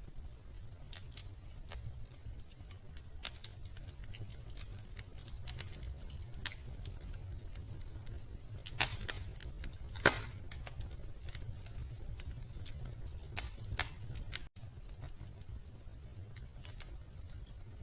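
Wood fire crackling in a fireplace: scattered small snaps, with two louder pops about nine and ten seconds in and a couple more a few seconds later, over a low steady rumble.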